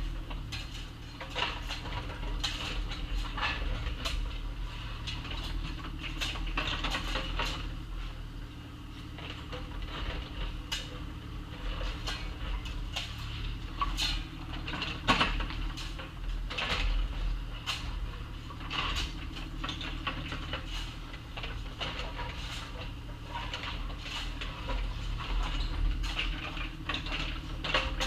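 Compact excavator's engine running steadily under load, with frequent scattered clanks and knocks as the bucket digs and scrapes through gravel and dirt.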